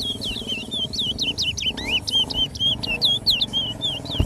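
Towa-towa finch singing a fast, unbroken run of sweet slurred whistles, each note sweeping sharply up and down.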